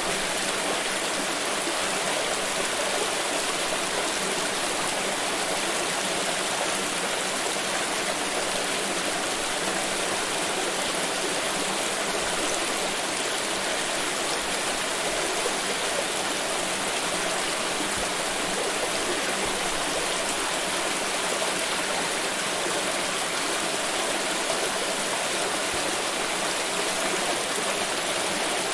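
Water pouring in a steady, even rush with no breaks or changes.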